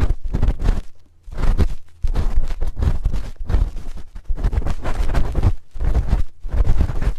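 A spoon scraping and rubbing close against the microphone in ASMR ear cleaning: a string of irregular scratchy strokes with a heavy low rumble, broken by a short pause about a second in.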